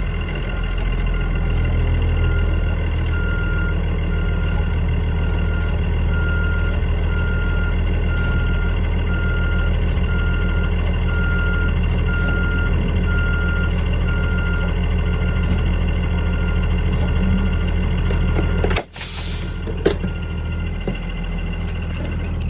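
Blue Bird Vision school bus idling with a steady low hum while an electronic alarm beeps about once a second for most of the time, then stops. Near the end a short, loud hiss of air is let out.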